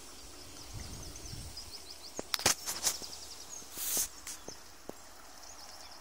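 Rural outdoor ambience with faint, high repeated bird twittering. A few loud sharp clicks come about two and a half seconds in, and a brief rustle follows about a second later.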